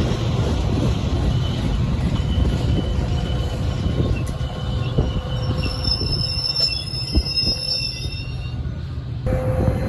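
A train rolling past with a steady low rumble and occasional knocks from the wheels over the rail joints, and a thin high squeal of steel wheels on the rails through the middle. The sound changes abruptly near the end.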